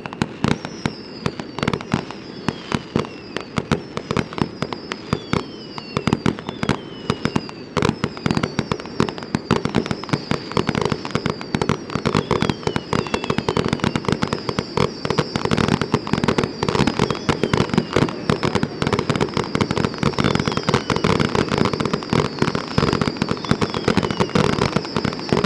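Fireworks display going off in a dense, rapid barrage of bangs and crackles that grows thicker partway through, with many short whistles falling in pitch over it.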